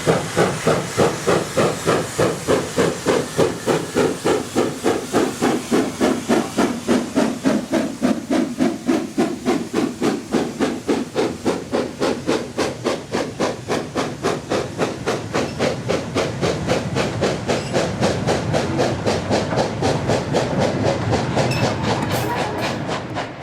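Steam locomotive working hard, its exhaust chuffing in a fast, even beat over steady steam hiss. The beats blur together and fade near the end as it moves away.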